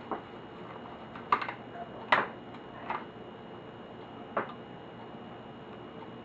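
Scattered light clicks and taps of small laptop parts and screws being handled during disassembly, irregular and a few per second at most, the loudest about two seconds in, over a steady hiss with a thin high whine.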